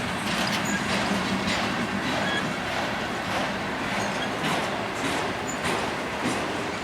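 Railroad cars rolling past on the track: a steady rumble of wheels, with wheels clacking over rail joints about once or twice a second and brief faint squeals of wheel on rail.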